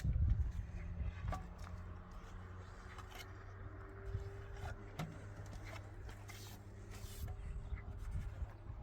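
A steady low engine-like hum with scattered light clicks and taps over it.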